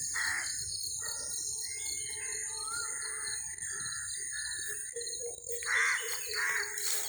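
Crows cawing: one harsh caw at the start and two more near the end, with smaller birds chirping between them. Underneath runs a steady, high-pitched insect drone.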